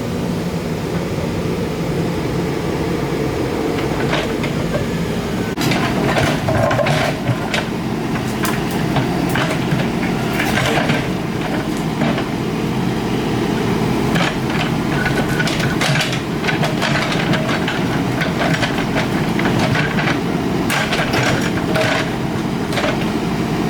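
Excavator's diesel engine running steadily, with many irregular metallic knocks and clatters over it from about five seconds in, as the machine works earth and rock.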